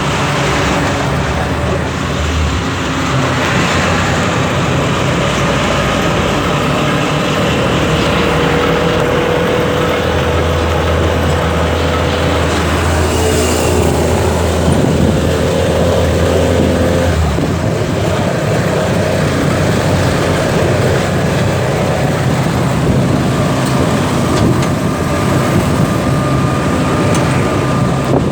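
Engine of a three-wheeled cargo motorcycle running steadily while driving along a road, with road noise throughout.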